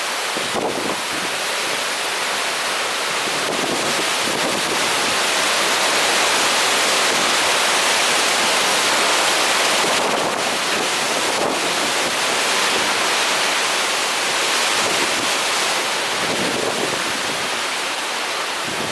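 Typhoon wind and heavy rain: a steady rushing noise that swells for several seconds in the middle and eases again.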